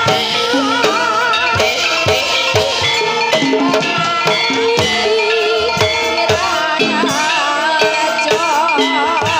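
Javanese kuda kepang (ebeg) dance music: a folk ensemble with hand drums keeping a steady beat, metallic percussion strokes, and a melody line wavering with heavy vibrato.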